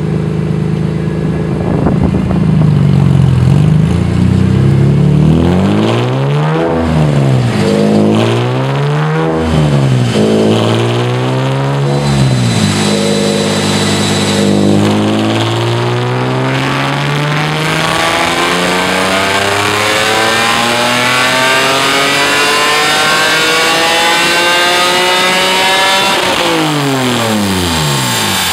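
2005 BMW M3's S54 inline-six, through a straight race exhaust and stepped headers, on a chassis dyno. A few quick revs rise and fall, then comes one long, steady climb in pitch: a full-throttle pull through the rev range. Near the end the pitch drops quickly as the throttle is lifted.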